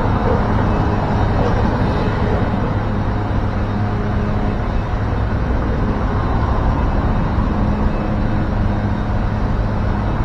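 Steady vehicle and road-traffic noise: a constant low engine hum under an even wash of road sound, with no sudden crash or bang.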